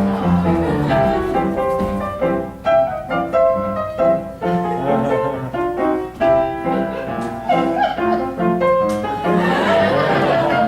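Instrumental piano music: a run of separate notes played over chords.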